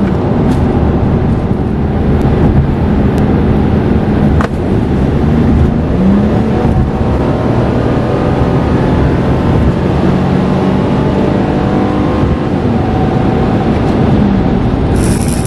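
Toyota Estima's 2GR-FE 3.5 L V6 running under way, with road noise. The engine note stays mostly steady, with a short rise in pitch about six seconds in and a small dip near the end.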